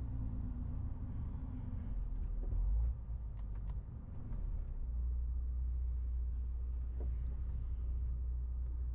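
MAN TGX 18.470 truck's six-cylinder diesel engine running with a steady low drone. About three seconds in, the drone drops away for a second or two with a few light clicks, then picks back up steady.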